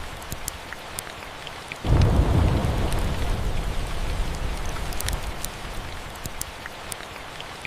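Steady rain with a roll of thunder that breaks in suddenly about two seconds in and slowly fades away. Scattered sharp crackles from a fireplace run through it.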